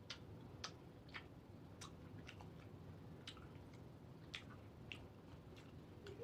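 Quiet, close-up eating sounds: a person chewing a bite of fried street food, with soft irregular wet mouth clicks.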